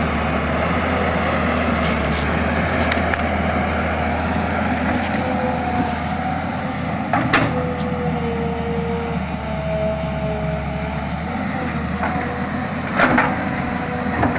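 Excavator's diesel engine running steadily, with a faint whine that comes and goes in the middle and two sharp knocks, about seven and thirteen seconds in.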